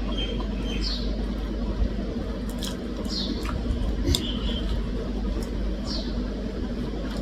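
A person eating close to the microphone: chewing and wet mouth sounds with scattered short clicks, over a steady low hum.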